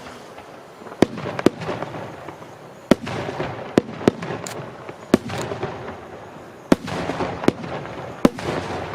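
Aerial firework shells bursting: sharp bangs every half second to second and a half, with crackling between them.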